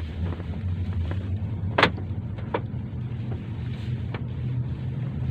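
Car driving, a steady low road rumble, with a few sharp clicks, the loudest about two seconds in.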